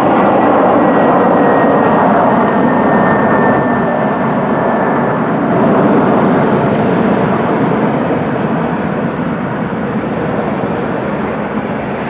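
Jet airliner's engines passing close, loud, with a thin high whine that drops slightly in pitch over the first few seconds while the noise slowly fades.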